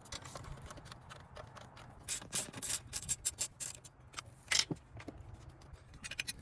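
Irregular clicks and light metallic knocks of hand tools and parts being handled under the hood while an oil catch can and its lines are fitted. A quick run of clicks comes a couple of seconds in, and a single louder knock with a short ring falls past the middle.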